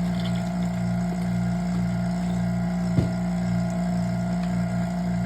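Vacuum pump running with a steady mechanical hum and a faint regular pulse. There is a single short click about three seconds in.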